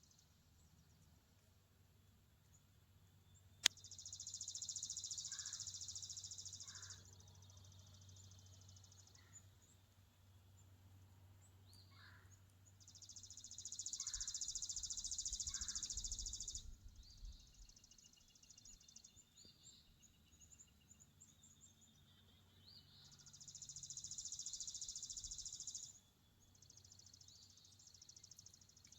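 Faint outdoor ambience: an insect buzzing in three long, high trills of about three seconds each, roughly ten seconds apart, with a few short bird chirps in between. A single sharp click comes a little under four seconds in.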